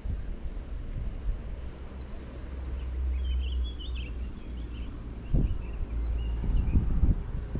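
Wind rumbling on the microphone, with a small bird chirping short repeated phrases three times and a couple of dull knocks from handling near the end.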